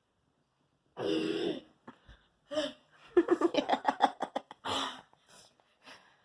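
A person coughing and breathing hard from the burn of a very hot sauce: a harsh breath about a second in, then a quick run of short coughs and another gasp near the end.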